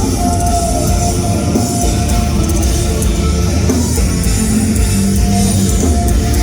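Live rock band playing loudly: distorted electric guitars, bass and drum kit in an instrumental passage of a post-hardcore song.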